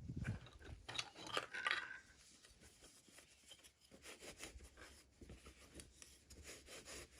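Hands handling small packaging: rustling, rubbing and small clicks and scrapes. These are louder in the first two seconds, then fainter.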